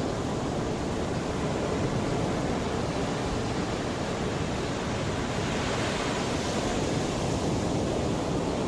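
Mediterranean sea waves washing onto the shore in a steady rush, with a slightly brighter swell of surf about two-thirds of the way through.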